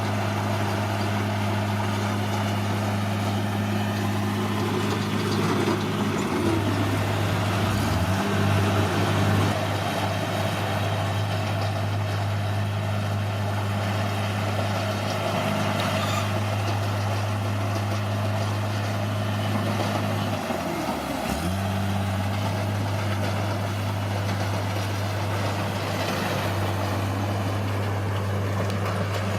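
Bulldozer's diesel engine running steadily. Its pitch dips and comes back up twice: about a quarter of the way in, and again about two-thirds through.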